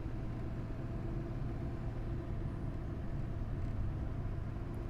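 Steady low drone of a 2004 GMC Sierra 2500 HD's 6.6-litre Duramax V8 turbo-diesel and road noise, heard from inside the cab while driving.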